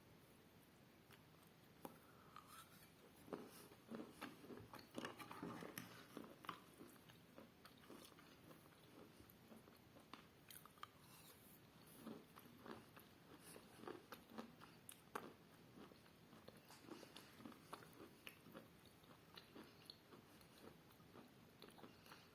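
A person chewing and biting chalk close to the microphone: faint, irregular crunches and small crackles, busiest a few seconds in.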